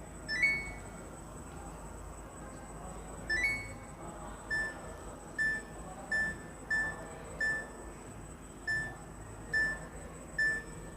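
Samsung AI EcoBubble washing machine's control panel beeping as its buttons are pressed. A short rising two-note chime comes twice, then about eight single beeps follow, roughly one a second.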